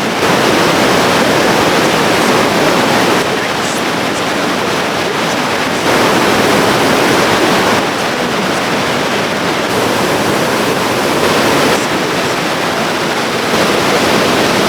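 Waterfall rushing: a steady, dense sound of falling water whose level steps up and down a few times.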